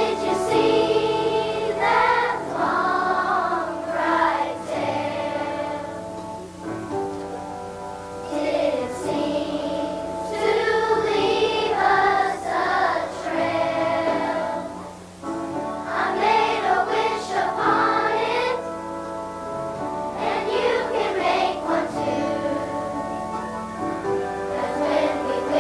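Children's choir singing a song in phrases, over steady instrumental accompaniment.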